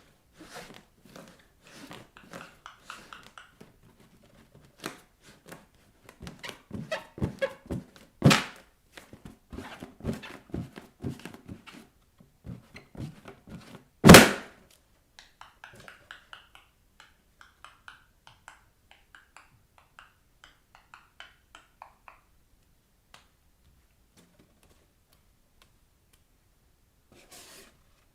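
Bare feet tapping and rubbing on inflated balloons, a quick run of light taps and thuds. Then come two sharp bangs, the louder about 14 seconds in, as balloons burst under the feet. After that there is a stretch of short squeaks from skin rubbing on balloon rubber.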